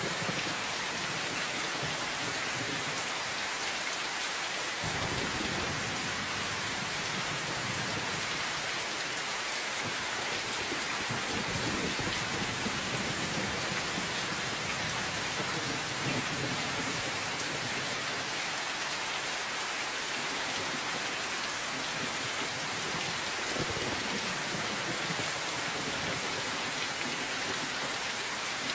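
Steady rain hissing without a break, with low rumbles of thunder swelling and fading a few times.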